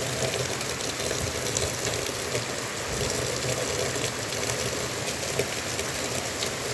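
Heavy rain pouring down during a thunderstorm: a steady rushing hiss with scattered ticks of drops.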